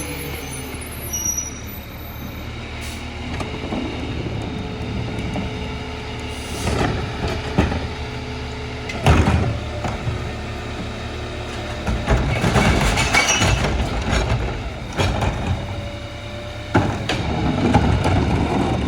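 Freightliner garbage truck with a Heil rear-loader body running steadily, with a series of loud clanks and bangs from the rear loader; the loudest comes about nine seconds in, and there is a busy patch of rattling a little after that.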